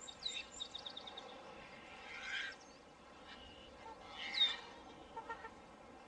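Several birds calling over faint outdoor background noise. A quick high trill of chirps comes at the start, then two harsher calls about two and four and a half seconds in, the second the loudest, with scattered small chirps between.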